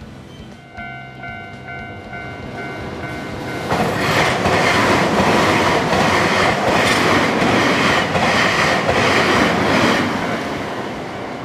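A Japanese level-crossing warning bell rings, its electronic clangs coming about twice a second. From about four seconds in, a Nankai electric train passes close by, its wheels clattering over the rail joints and drowning out the bell, then easing off near the end.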